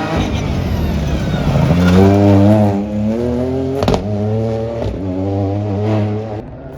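Rally car engine accelerating hard past. Its pitch climbs and drops several times as it shifts up through the gears, with two sharp bangs about a second apart in the middle. It ends abruptly near the end.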